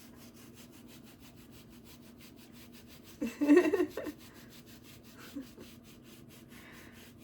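A woman's brief wordless vocal sound, lasting under a second, about three seconds in, over a faint steady hum.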